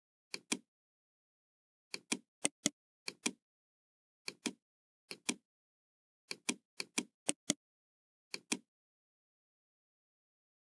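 Computer mouse clicking: about ten clicks at irregular intervals, each a quick pair of sharp ticks, with dead silence between.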